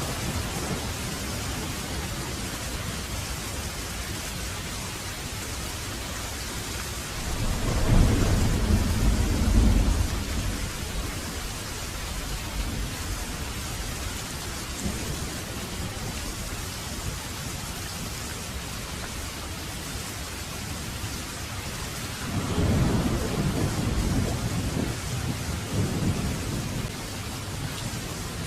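Heavy rain falling steadily, with two long rolls of thunder rumbling deep and low, one about eight seconds in and another about twenty-two seconds in.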